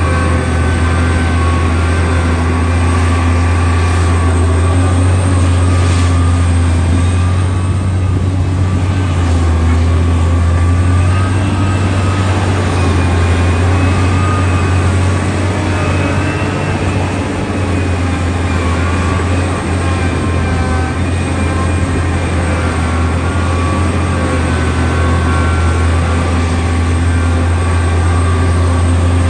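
Heavy diesel engine of a backhoe or excavator running steadily, a deep, even drone with little change in pitch.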